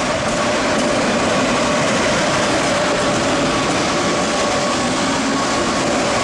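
A train running through a station: a steady rumble and rush of wheels on rails, with a faint steady whine over it.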